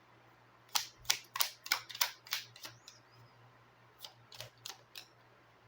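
Lenormand playing cards handled and laid down on a table: a quick run of sharp card snaps about three a second, a pause, then four more snaps.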